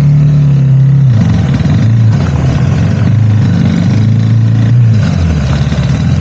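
Motorcycle engine running under load on a rough track. Its pitch holds, drops about a second in, then rises and falls again as the throttle is worked.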